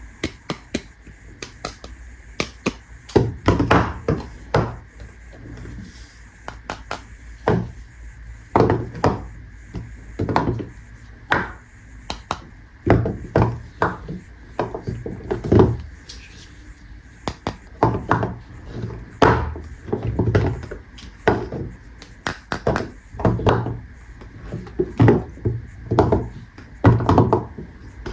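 Hands unwrapping and handling soap bars: packaging crinkling and crackling in short bursts, with many small clicks and irregular knocks and taps.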